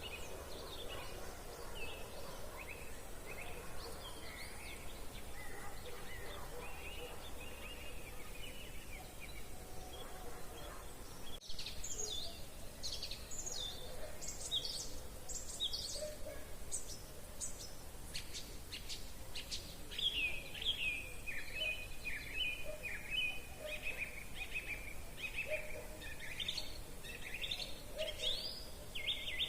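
Several songbirds singing at once, overlapping short chirps and trilled phrases, growing busier in the second half.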